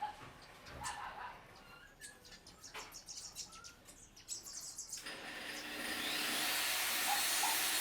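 Small birds chirping in short calls with light clicks. About five seconds in, a steady hiss comes in, swells and then holds, drowning them out.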